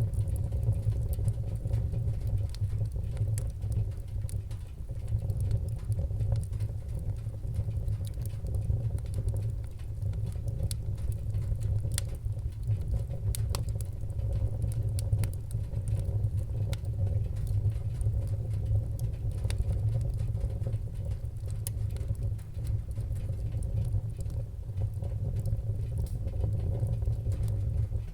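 Wood fire crackling in a fireplace: a steady low rumble under frequent small pops and snaps, with a couple of sharper pops around the middle.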